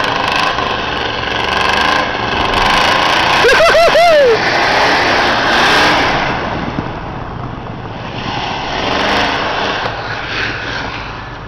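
A Ford pickup's 351M V8 revving hard as the truck pushes through snow, loudest in the first six seconds and then easing off. About three and a half seconds in, a short warbling squeal rises and falls several times over it.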